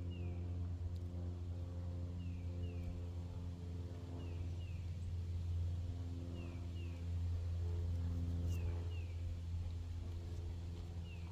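A steady low motor hum, the loudest sound throughout. Over it a bird calls a pair of short falling high notes about every two seconds.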